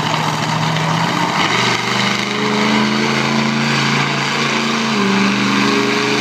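Monster truck engine running loud, its note holding steady, then shifting lower about a second and a half in and changing pitch again near the end.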